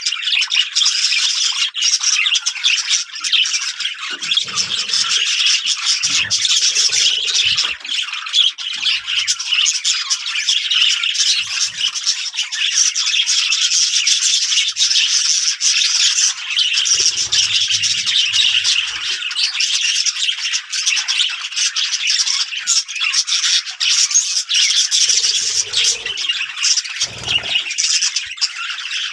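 Many small birds chattering and calling together in a dense, unbroken din.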